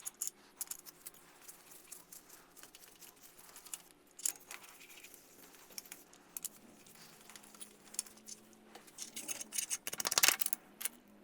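Light, scattered metallic clicks and clinks from hand tools turning the main bearing cap bolts of a Ford 300 inline-six block, with a quick run of clicks about ten seconds in.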